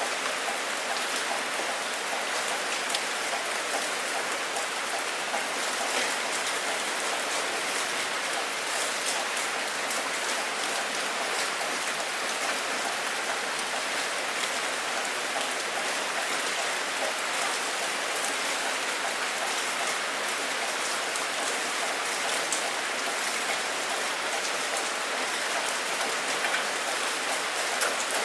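Steady heavy rain, dense drops pattering on a hard surface with fine individual drop ticks.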